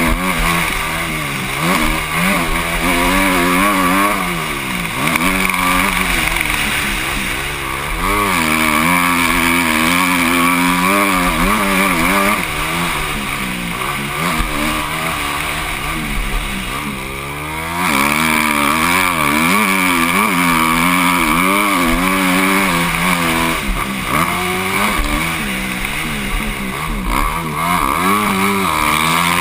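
Motocross bike engine heard from a helmet camera, revving up and down without pause as the rider accelerates, shifts and rolls off through the track's corners and jumps. There is a brief drop in revs about two-thirds of the way through, then it pulls hard again.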